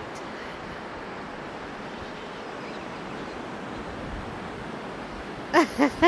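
Ocean surf washing in, a steady rush of waves. Near the end a person's voice breaks in with a few short, rhythmic cries.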